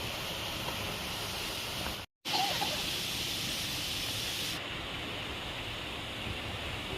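Waterfall rushing: a steady, even hiss of falling water, cut off by a brief dropout about two seconds in and then going on.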